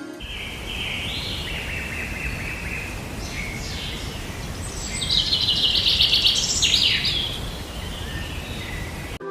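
Songbird singing: a run of chirps and warbled phrases, then a fast, louder trill about five to seven seconds in, over a steady background hiss.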